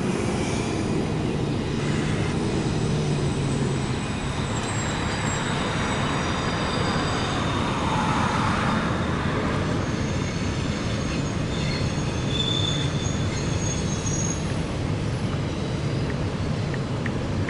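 CSX double-stack intermodal freight train rolling past on a curve, a steady rumble of wheels on rail with thin high-pitched wheel squeal coming and going. Cars pass on the road nearby, with a swell in the noise about eight seconds in.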